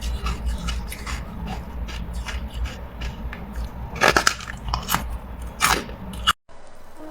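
Carbonated ice being bitten and chewed close to the microphone: a run of small crackling cracks, with two loud crunches about four and nearly six seconds in. The sound cuts off abruptly a little after six seconds.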